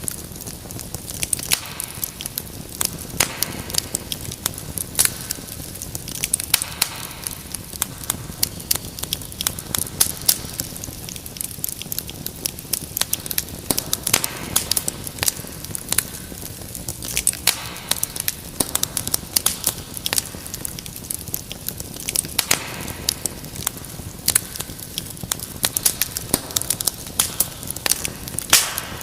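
Wood fire crackling in a fireplace: dense, irregular sharp pops and snaps over a steady low rumble and hiss of burning.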